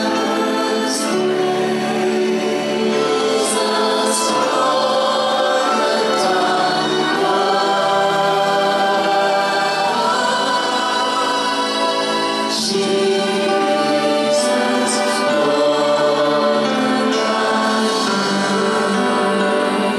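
Background music: a choir singing held notes.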